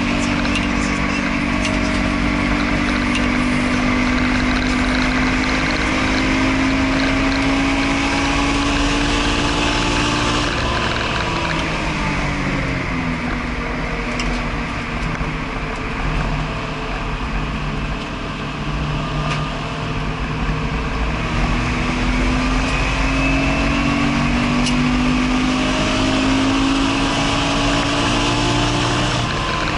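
Subaru BRZ's naturally aspirated flat-four engine heard from inside the cabin under hard driving on track. Its pitch climbs slowly, falls away about eleven seconds in, holds lower for about ten seconds, then climbs again near the end.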